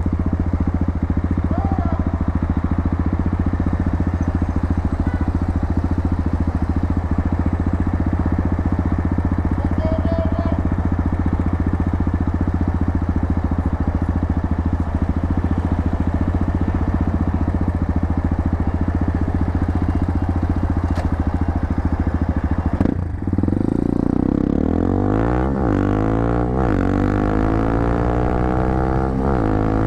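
250cc motorcycle engine through an aftermarket muffler, running at a steady pitch, then revved up and down several times in the last few seconds.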